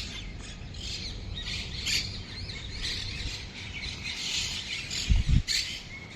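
Many small birds chirping and squawking over one another in a steady chorus. About five seconds in, a couple of dull low thumps.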